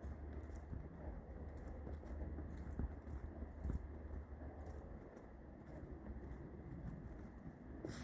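Footsteps on a woodland trail: irregular soft crunching and rustling, with a low rumble underneath that fades about five seconds in.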